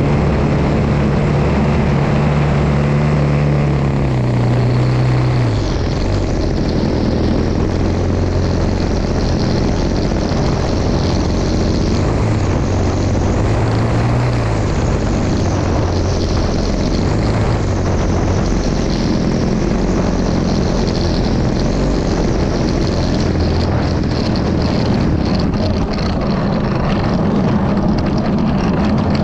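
Yak-54's nine-cylinder M-14P radial engine and propeller running, with a broad rush of noise. The engine note drops about five seconds in, then rises and falls a few times as the power changes.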